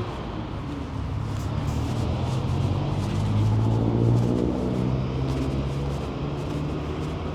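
A motor vehicle's engine running close by with a low, steady note that swells to its loudest about four seconds in and then fades as it passes.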